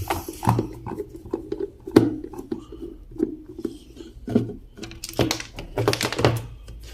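Irregular small clicks and knocks of a tool and hands working on an electric kettle's plastic base as its nuts are undone to open it.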